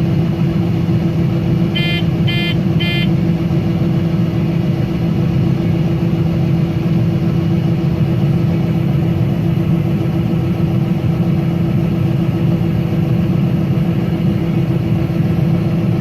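A combine harvester running steadily while shelling corn, with a constant engine and machinery drone. Three short beeps sound close together about two seconds in.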